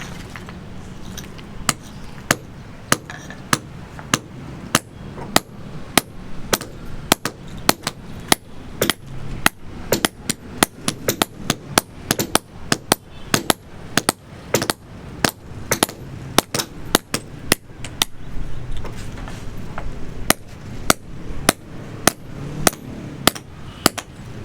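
A hammer striking repeatedly at about two blows a second, each blow a sharp impact.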